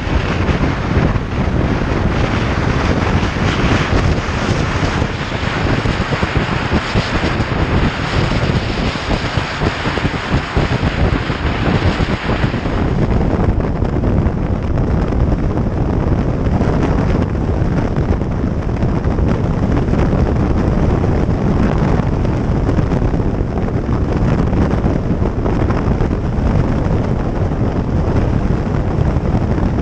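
Wind rushing over the microphone on a moving motorcycle, with engine and road noise underneath. The higher hiss eases about 13 seconds in.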